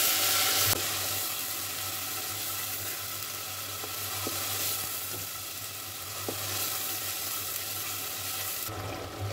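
Wet green masala paste frying in hot oil in a steel pot. It sizzles strongly at first, eases off after about a second into a steady sizzle, and is stirred with a steel spoon that scrapes and clicks against the pot now and then.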